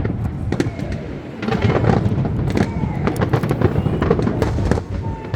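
Fireworks display: a rapid run of bangs and crackles from bursting shells, getting denser about a second and a half in.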